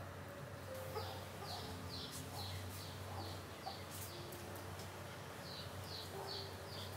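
A bird chirping in two quick runs of short, falling chirps, about two a second, over a low steady hum.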